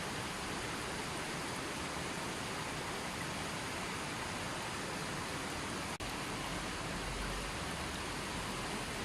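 Steady rushing of running water, an even hiss with no separate drips, broken by a split-second dropout about six seconds in.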